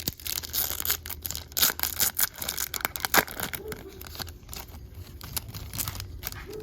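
Crinkling and tearing of a foil trading-card pack wrapper, dense crackling for about three seconds, then thinning to a few light crackles.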